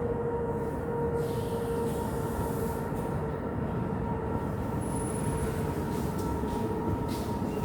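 ЭП2К DC electric passenger locomotive pulling a passenger train away from a station: a continuous rumble with a steady high whine from the locomotive.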